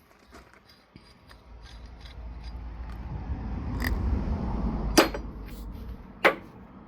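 Heavy metal axle parts being handled: a scraping, sliding noise that builds over a few seconds, then two sharp metallic knocks about a second apart.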